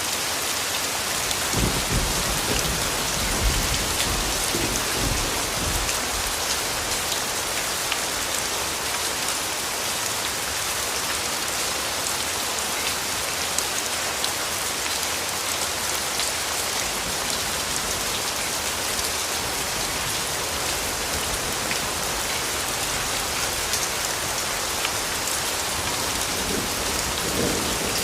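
Steady rain falling with scattered drops, and a low rumble of distant thunder from about two to five seconds in, with a fainter rumble near the end.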